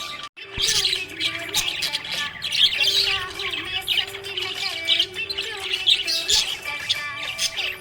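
A flock of budgies chirping and chattering in a dense, continuous stream of quick high chirps and warbles, broken by a brief gap about a third of a second in.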